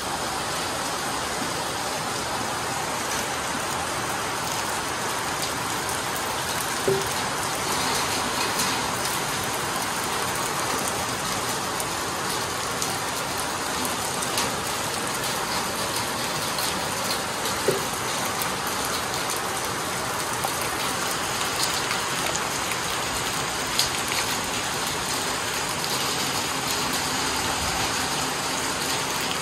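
Steady downpour of rain, an even hiss on roofs and foliage, with a few single sharp taps of drops standing out now and then.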